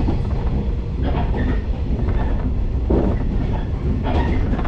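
Electric local train running along the line, heard from inside the carriage: a steady low rumble of wheels on rail, with a few louder clacks along the way.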